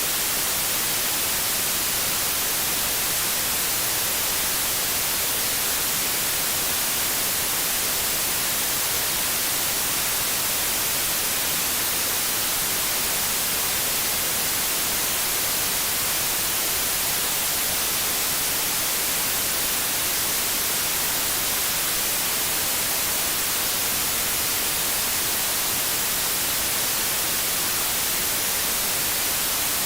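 Television static: a steady, unchanging hiss, brightest in the high end.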